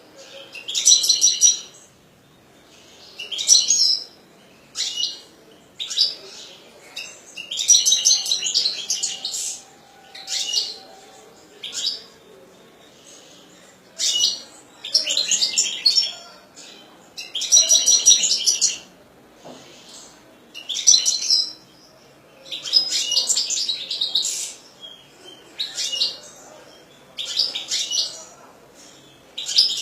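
Caged European goldfinch singing: phrases of rapid, high twittering and tinkling notes, each up to about two seconds long, with short pauses between them.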